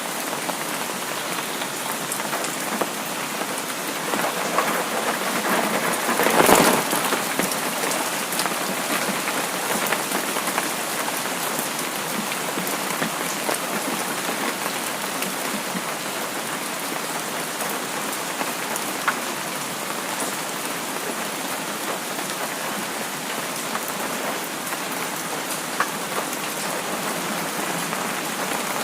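Steady rain falling on a surface: an even hiss with scattered drop ticks, swelling briefly louder about six seconds in.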